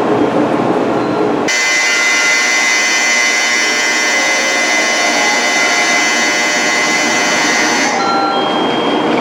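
Electronic departure bell on a Shinkansen platform: a steady, shrill ringing made of several high tones at once. It starts sharply about a second and a half in, rings for about six seconds, and stops abruptly. It is the signal that the train's doors are about to close.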